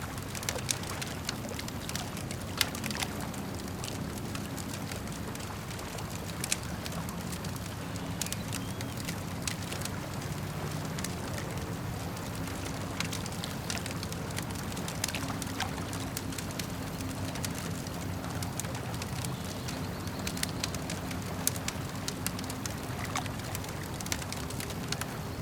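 Campfire crackling, with irregular sharp pops and snaps from the burning wood, over the steady wash of lake water lapping.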